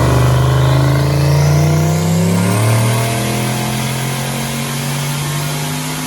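Turbocharged LS V8 in a Chevrolet El Camino making a wide-open-throttle pull on a chassis dyno, its note rising steadily in pitch under load. A high turbo whistle climbs above the engine.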